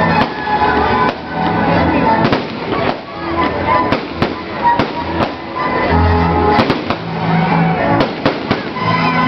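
Fireworks going off in a stream of sharp bangs and crackling pops, over loud music with held bass notes.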